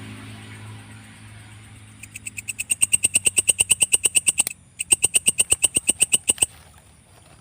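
Belalang kecek katydid singing: a rapid, even train of sharp chirps, about ten a second, that grows louder, breaks off briefly about halfway, then resumes and stops near the end.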